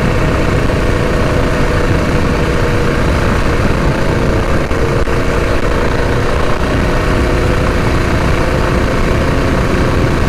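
Mini bike's Predator 212 single-cylinder four-stroke engine running steadily at part throttle on a fast downhill run, with heavy wind rumble on the microphone.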